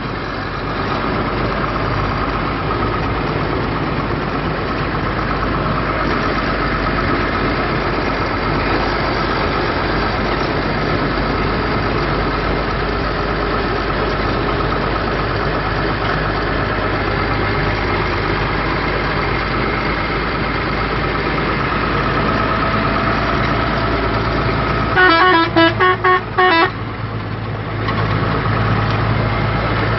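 Truck engine running steadily. Near the end, a horn sounds a quick run of short toots.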